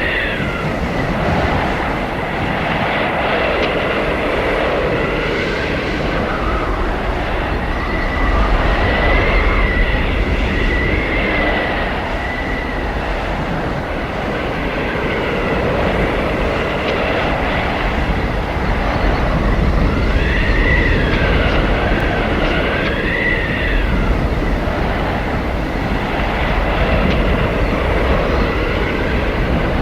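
Loud, steady blizzard wind howling, with a thin whistle that wavers up and down in pitch every few seconds over a deep rushing rumble.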